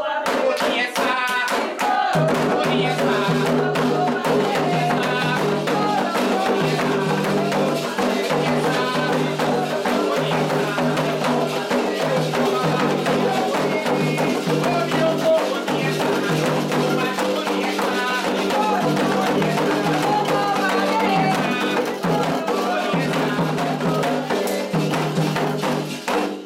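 Candomblé toque: atabaque hand drums and other percussion playing a fast, steady rhythm with group singing. The drumming starts right at the beginning, the singing comes in about two seconds later, and the music breaks off at the very end.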